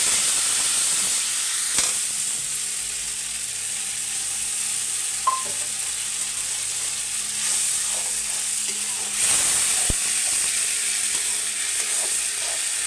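Masala sizzling as it fries in hot oil in an aluminium kadhai, stirred with a metal spatula that now and then scrapes and taps against the pan. The sizzle swells again about nine seconds in.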